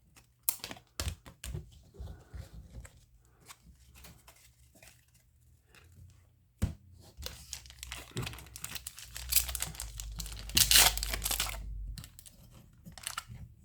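A pack of 1993 Upper Deck baseball cards being torn open by hand: scattered short rustles and clicks, then a louder, longer stretch of wrapper tearing and crinkling from about nine to twelve seconds in.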